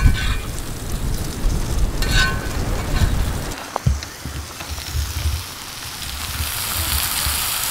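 Steak frying in a cast iron skillet, a steady sizzle that swells over the last second or two. Low thumps and rumble from the camera being handled and moved come through the first half.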